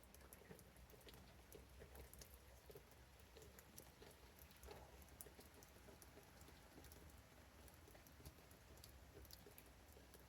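Near silence with faint, irregular ticks of rain dripping and pattering.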